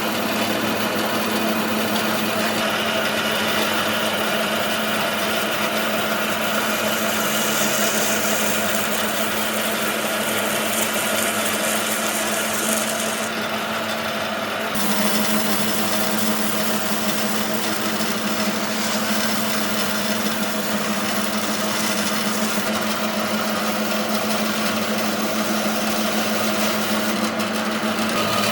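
Woodworking power tool running steadily: a constant motor hum with a hiss of cutting or sanding over it, which changes briefly about halfway through before carrying on.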